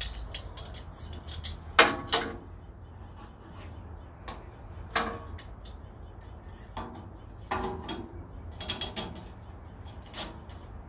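Irregular metal clanks and clicks from a 14-inch bandsaw's blade guard being fitted and adjusted by hand, some ringing briefly, the loudest pair about two seconds in. A low steady hum lies underneath.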